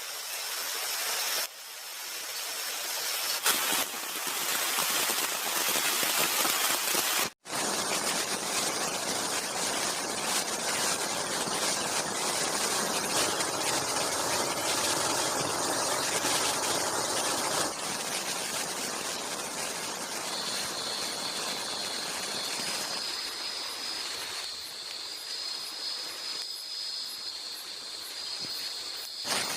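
Heavy rain falling steadily, a dense even hiss, broken once by a sudden cut about seven seconds in. In the last third, high-pitched insect trills come and go above the rain.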